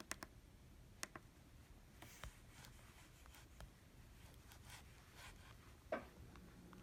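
Near silence with a few faint taps and light rubbing from handling the repaired iPad mini; the loudest tap comes about six seconds in.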